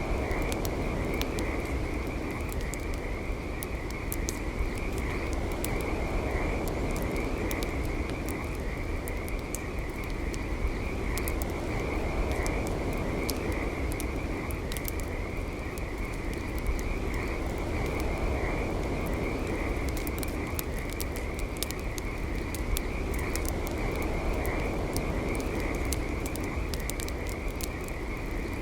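Campfire crackling, with frequent sharp pops and snaps throughout, over a steady high-pitched pulsing night chorus that runs without a break.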